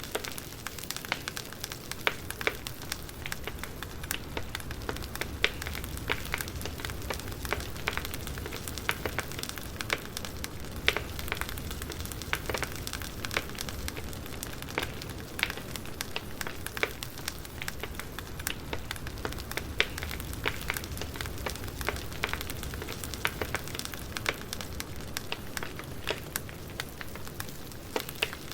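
Wood fire burning and crackling: a steady soft hiss and low rumble with frequent sharp pops and snaps, a few louder pops scattered through.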